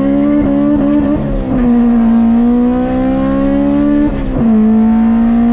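Honda K20 four-cylinder engine with individual throttle bodies, pulled hard near its 8,000-plus rpm redline from inside the car. The pitch climbs through each gear and drops sharply at two upshifts, about one and a half seconds in and again about four seconds in.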